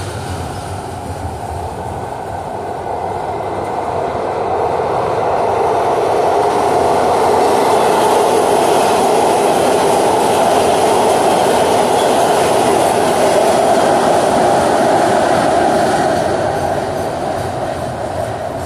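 Autorack freight cars rolling slowly past, steel wheels on rail. A rapid-transit train passes on the raised track alongside at the same time, so the rolling noise swells to its loudest in the middle and eases off near the end.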